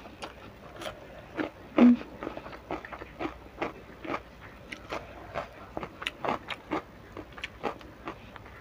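Close-up eating sounds: crisp crunches of raw cucumber being bitten and chewed, a string of sharp crunches at about two or three a second, the loudest about two seconds in.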